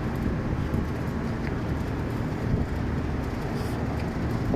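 25-ton Trane package air-conditioning unit running, a steady machine hum with an even rushing noise and no changes.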